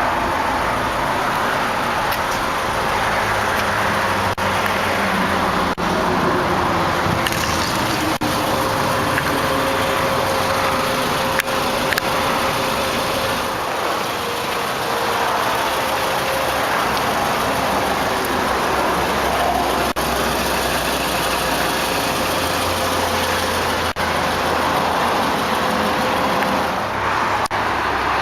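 Steady motor-vehicle noise: a car engine idling with road traffic going by, one passing vehicle's pitch falling slowly in the middle.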